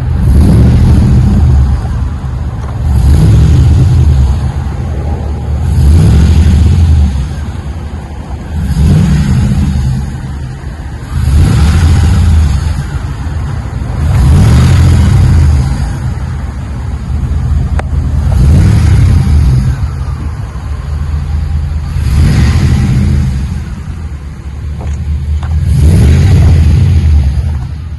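LS3 V8 revved about nine times through a stainless exhaust with Magnaflow Magnapack dual-in, dual-out mufflers and an X-pipe. Each rev swells and drops back to a deep idle rumble.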